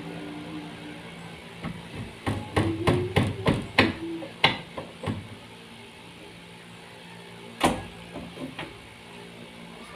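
Hammering: a quick run of about ten blows, then after a short pause one harder single blow followed by a couple of light taps.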